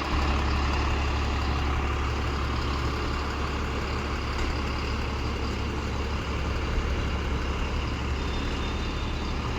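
Heavy diesel engine of a working machine running steadily, with a strong low hum.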